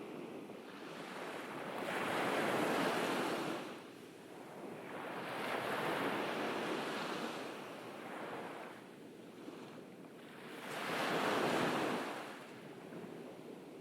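Ocean surf on a beach: waves breaking and washing in, the rush of water swelling and fading three times.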